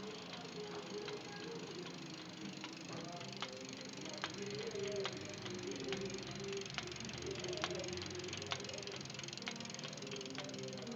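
Spinning bicycle wheel giving off a sharp knock that repeats at an even pace, a little more than once a second.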